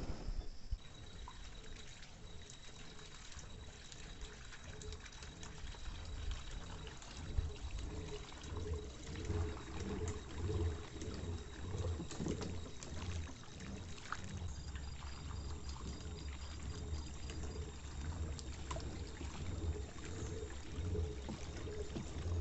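Water trickling and splashing around a kayak, irregular sloshes like paddle strokes and drips from the paddle.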